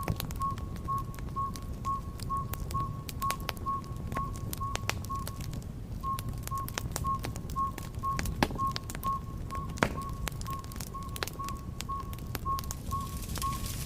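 Wood fire in a fireplace crackling, with frequent sharp pops over a low rumble. A thin high tone pulses steadily about twice a second throughout.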